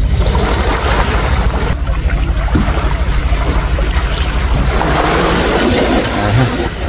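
Strong wind buffeting the microphone, a heavy low rumble over the rush of surf as small waves roll in ahead of a tropical storm.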